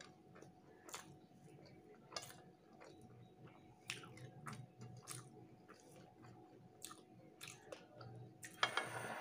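Faint close-up chewing and mouth sounds of a person eating rice and fish curry by hand, with scattered small wet clicks and smacks. There is a short louder noise near the end.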